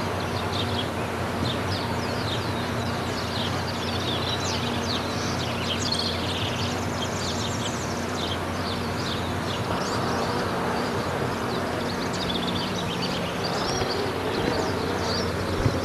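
Many birds chirping in quick, overlapping calls over a steady background hiss and low hum.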